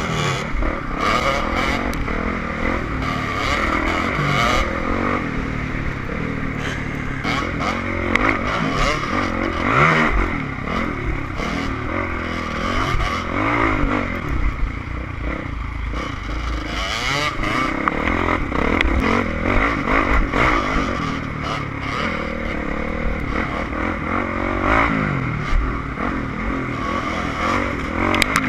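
Enduro dirt bike engine revving up and down continuously as it is ridden off-road, with clattering and knocks over rough ground.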